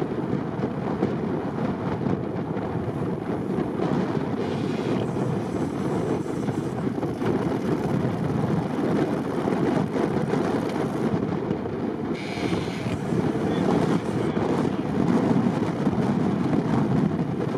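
Engine of a lifted ZAZ-bodied off-road vehicle running steadily under heavy load as it churns through a bog, with some wind noise on the microphone.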